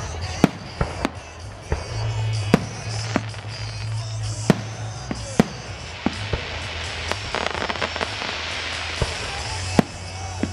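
Aerial fireworks display: a string of sharp shell bursts a second or two apart, with a spell of crackling stars about two-thirds of the way through. Music plays underneath.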